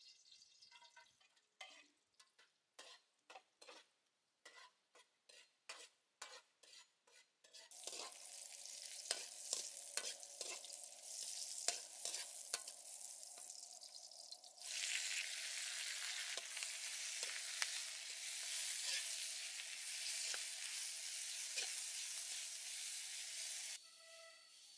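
About a dozen sharp taps of a metal spatula, then sliced carrots frying in hot oil in a wok: a steady sizzle with spatula strokes scraping and clicking against the pan. The sizzle turns much louder about halfway through and cuts off suddenly near the end.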